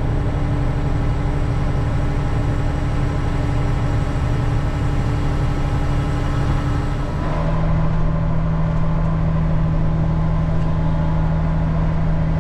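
Heavy farm vehicle's diesel engine running steadily, heard from inside the cab. About seven seconds in the sound changes abruptly to a different steady engine drone with a stronger low hum.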